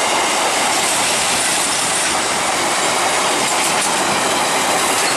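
Open-top freight wagons of a goods train rolling past, their steel wheels on the rails making a loud, steady clatter.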